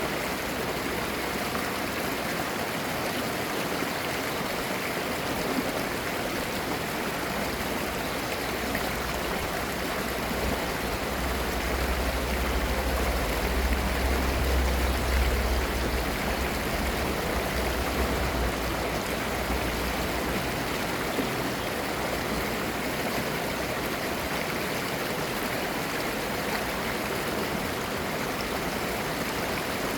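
Valley stream flowing, a steady babbling rush of water. A low rumble swells for several seconds in the middle, then fades.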